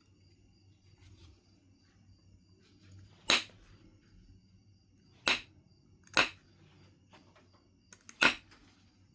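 Four sharp percussion strikes of a knapping billet on a piece of Knife River Flint, spaced one to two seconds apart; the last blow is preceded by two light taps.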